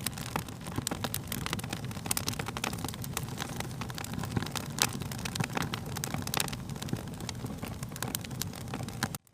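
Wood fire crackling: irregular sharp pops and snaps over a steady low rumble of flames. The sound drops out abruptly for a moment at the very end.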